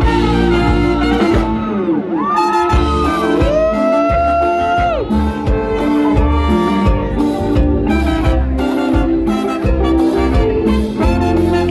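Live Latin band playing an instrumental passage: horns hold long notes that fall off in pitch at their ends, over a bass line and a steady beat.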